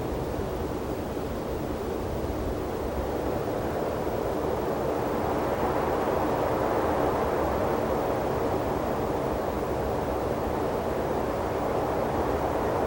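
Wind blowing across open desert ground, a steady rushing that swells about halfway through and again near the end.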